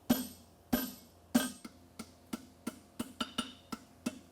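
Hammer blows on a fuller on hot steel over an anvil, each ringing out: a few heavy strikes about two thirds of a second apart, then quicker, lighter ones about three a second from about a second and a half in, smoothing out the fullering groove of a horseshoe.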